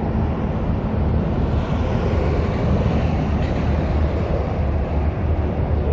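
Steady passing road traffic, swelling a little in the middle as vehicles go by, over a low rumble of wind on the microphone.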